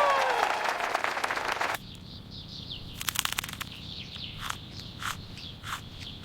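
Cheering and applause fading, cut off sharply about two seconds in. Then birds chirping in short repeated notes that fall in pitch, with a brief rattle in the middle.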